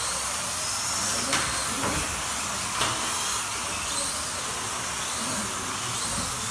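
Slot cars' small electric motors whining as they lap the track, the pitch rising and falling as they speed up and brake. Two sharp clicks come about a second and a half and three seconds in.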